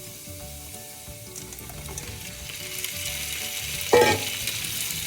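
Minced garlic frying in butter in a pan, sizzling, the sizzle growing louder from about a second and a half in as the shrimp go into the hot fat. A single sharp clank comes about four seconds in.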